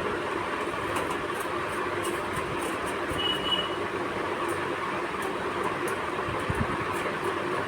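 Steady rumbling background noise with a few faint small clicks, from screws being tightened to fix a motherboard into a PC case. A brief thin whistle-like tone sounds about three seconds in.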